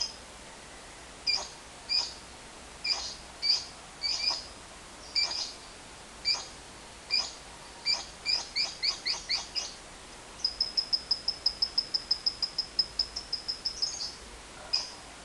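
Lovebird calling. Sharp, high chirps about a second apart quicken into a fast run, then give way to the long, rapid chattering trill called 'ngekek', about seven notes a second for some three and a half seconds. A couple of chirps follow near the end.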